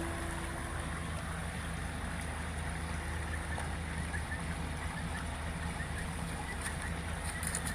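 Steady rushing of a running creek, with faint, short, high chirps of small birds from about halfway through.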